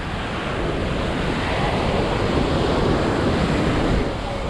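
Ocean surf breaking on a sandy beach: one wave's rushing wash swells over a few seconds and falls away near the end.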